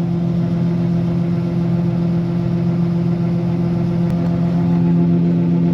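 Combine harvester running steadily while its unloading auger empties the grain tank: an even engine hum with a strong low tone.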